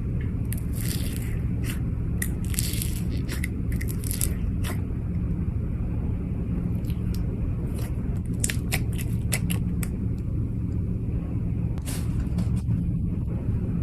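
Slime being squeezed and worked, giving scattered sharp clicks and crackles in clusters over a steady low hum.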